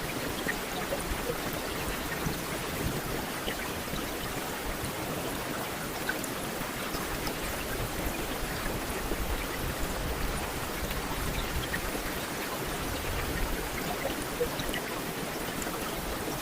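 Steady rainfall: an even hiss of rain with scattered small drops pattering.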